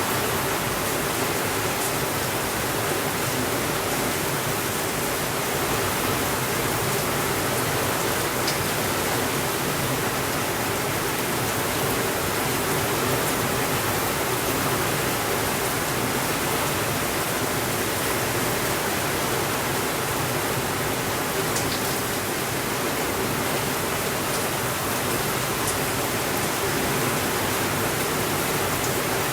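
Steady rainfall, an even hiss with no thunder, with a couple of faint ticks.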